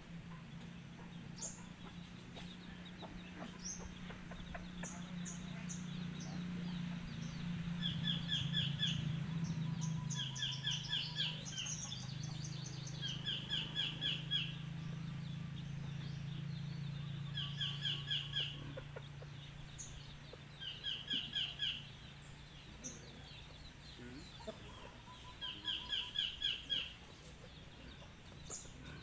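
Bird calls: a short, quick run of high notes repeated about every three seconds. A low steady hum underneath fades out a little past the middle.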